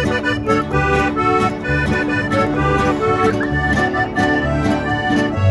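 Norteño music instrumental break: a button accordion plays the melody over bajo sexto and bass keeping a steady two-beat pulse.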